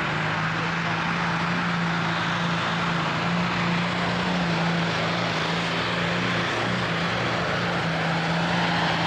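A tractor engine running at a steady speed, its pitch holding with no revving up or down, under a dense even hiss of noise.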